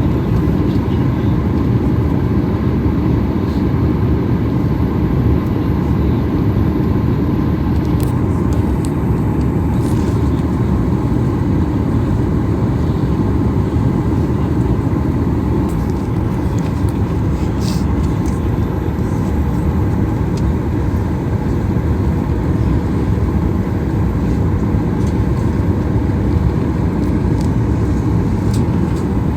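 Steady cabin noise inside a Boeing 737 MAX 9 airliner: a low, even rumble of the CFM LEAP-1B jet engines and airflow, with no rise or fall in level.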